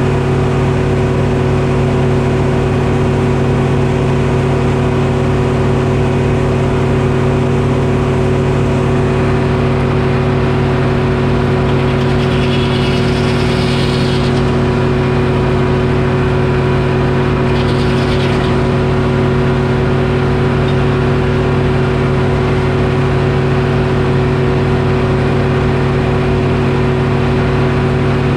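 Detroit Diesel engine powering a Frick sawmill, running at a steady speed. Two brief higher-pitched noises sound over it, one a little before halfway and one a few seconds later.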